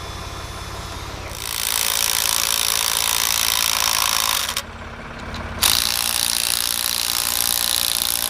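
Forklift running with its hydraulics working: a steady low engine hum under a loud hiss that starts about a second and a half in, breaks off for about a second, then resumes.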